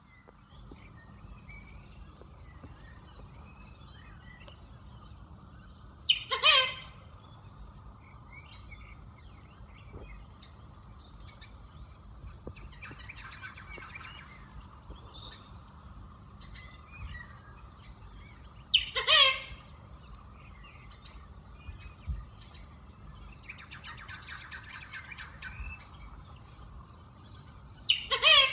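A black bird giving a loud, short, odd call three times, about twelve seconds apart, with fainter chirps of other birds in between over a steady background hum.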